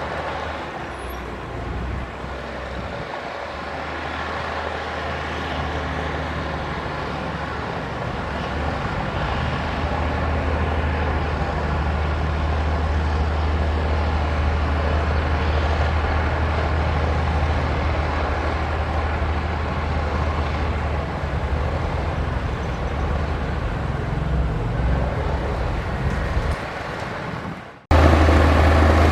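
Heavy diesel engine of earthmoving machinery running steadily with a deep low drone, slowly growing louder. Near the end it drops out abruptly, then comes back louder.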